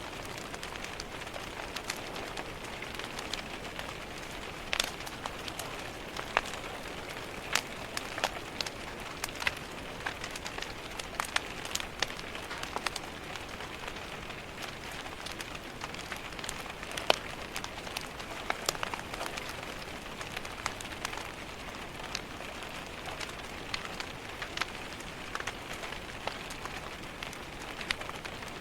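Steady rain pattering against a window, with scattered sharp pops and crackles from a wood fire.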